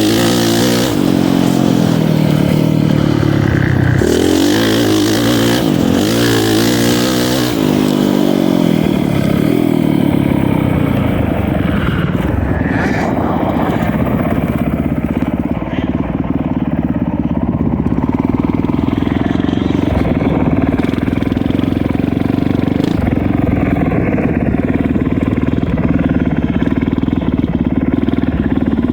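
Motocross dirt bike engine revving hard, climbing in pitch several times in a row through the first eight seconds, then running at a steadier pitch for the rest.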